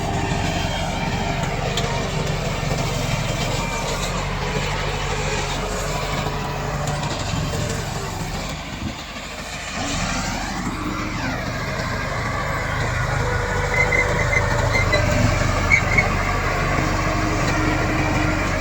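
Komatsu D68 bulldozer's diesel engine running steadily under work. It dips briefly about nine seconds in, then rises again, with a few short sharp clanks near the end.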